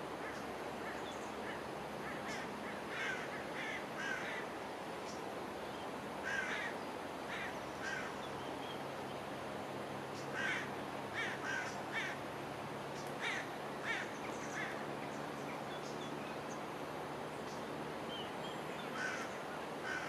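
Shallow river running steadily over rocks, with a bird giving short harsh calls in quick series of three or four, several times over.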